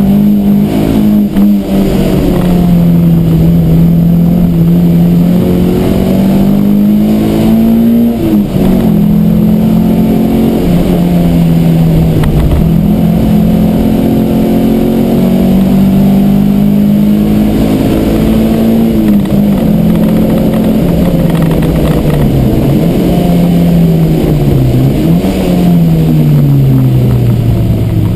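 Peugeot 309 GTI 16's 1.9-litre 16-valve four-cylinder engine, heard from inside the cabin at racing speed, its revs climbing and falling through gear changes. Short rev blips mark downshifts later on, and the revs fall near the end.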